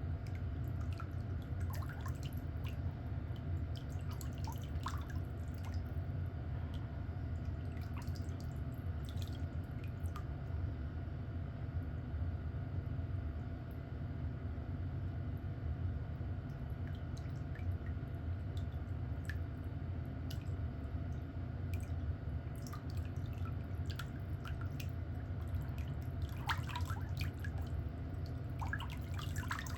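Steady low hum with scattered faint clicks and short scrapes, from pedicure tools working on a thickened, fungus-affected toenail.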